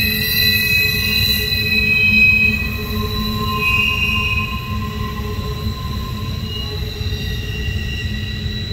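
Double-stack intermodal well cars rolling past on a sharp curve, steel wheels squealing in several steady high tones over a low rumble, with flanges grinding against the rail through the bend. The squeal is a little louder for the first two seconds or so, then carries on steadily.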